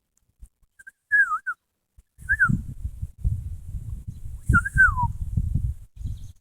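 A man whistling with his mouth to call birds: short notes that slide in pitch, a rising-and-falling phrase about a second in, a brief one near two and a half seconds and a longer falling one near four and a half seconds. A low rumbling noise runs under the later notes.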